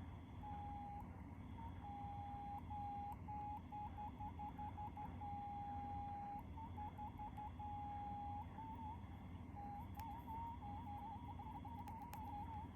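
Fake AirPods 3 earbuds making a weird electronic beeping at one pitch: short blips and longer held beeps, turning into rapid wavering chirps about eight seconds in.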